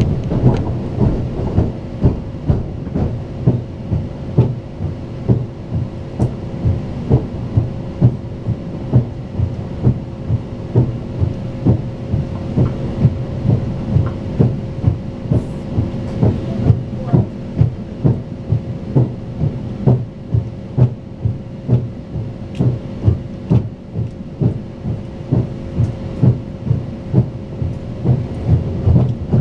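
Moving high-speed passenger train heard from inside the carriage: the wheels click over the rail joints about twice a second over a steady rolling rumble and a faint even hum.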